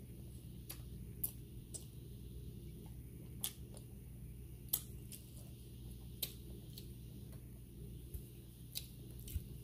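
Quiet chewing with scattered small mouth clicks and lip smacks, about eight through the stretch, over a steady low hum.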